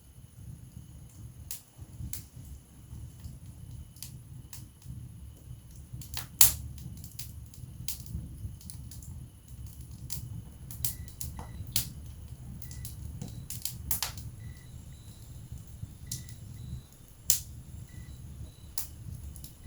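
Wood fire burning in a fireplace: a low steady rumble of the flames with irregular crackles and sharp pops of the logs, the loudest pops about six and a half, fourteen and seventeen seconds in.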